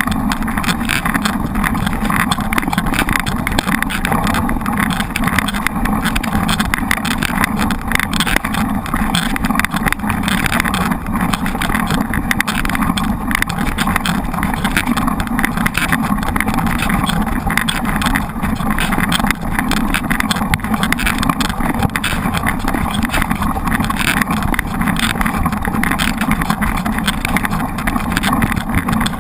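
Steady, loud rushing noise of wind on the microphone of a camera riding along on a mountain bike.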